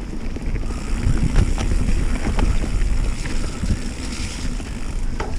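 Wind and pouring rain on a mountain-bike GoPro's microphone: a loud, steady low rumble with scattered sharp ticks.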